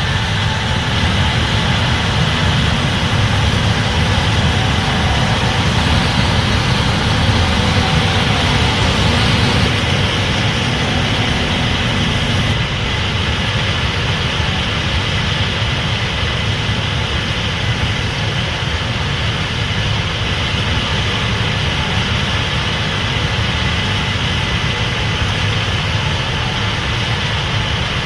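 Case IH 8250 Axial-Flow combine running steadily, a continuous low machine drone with a faint high whine over it. The sound drops a little about ten seconds in and then holds steady.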